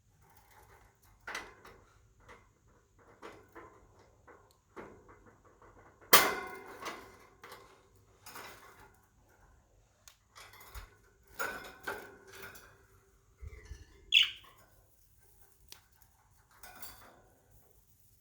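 Two pet budgerigars chirping and chattering amid scattered clicks and knocks, with a loud sharp burst about six seconds in and a high chirp about fourteen seconds in.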